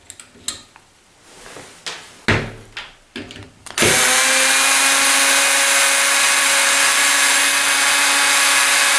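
A few light clicks and knocks, then about four seconds in a power drill starts and runs steadily at one even pitch, backing out a door handle's fixing screw.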